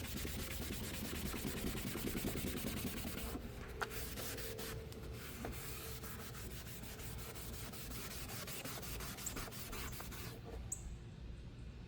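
Hand rubbing on a car's plastic headlight lens, quick back-and-forth strokes that stop near the end.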